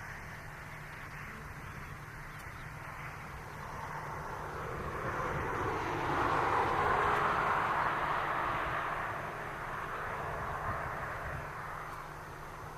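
Airliner's engines passing: a broad rush of engine noise that swells to a peak about halfway through and then fades away.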